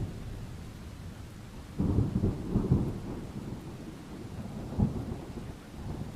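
Thunder rumbling over steady rain. A loud, crackling peal breaks in suddenly about two seconds in and rolls on for about a second, and a sharp clap follows near five seconds.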